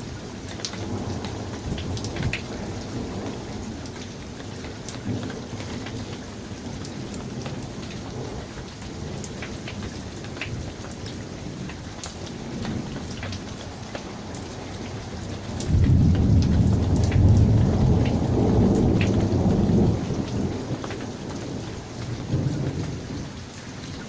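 Summer thunderstorm: steady rain with scattered drop clicks. About two-thirds of the way through, a loud roll of thunder starts suddenly, rumbles for about four seconds and then fades back under the rain.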